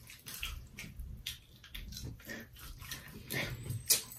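Mouth sounds of eating fried chicken and fries: irregular wet chewing clicks and lip smacks, with one sharper smack near the end.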